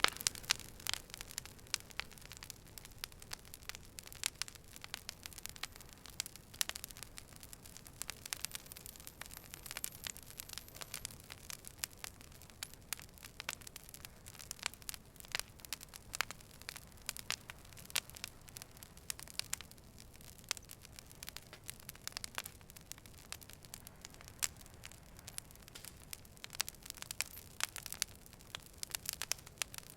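Burning fire crackling: many sharp, irregular pops and snaps over a faint steady hiss.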